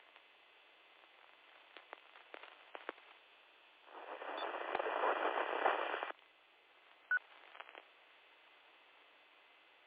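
Amateur FM radio receiving a repeater channel: faint static hiss with a few scattered clicks, then about two seconds of louder static that cuts off abruptly, like a weak station keying up, followed by a short blip.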